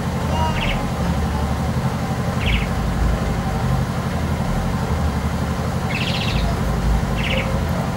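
Steady low mechanical hum, with a small bird chirping four brief times over it.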